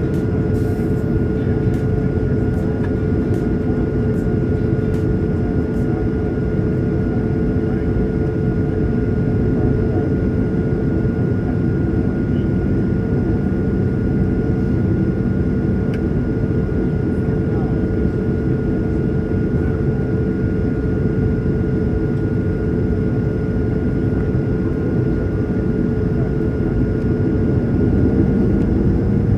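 Steady drone of an airliner cabin in flight: engine and airflow noise with a constant low hum and a few steady tones, unchanging throughout.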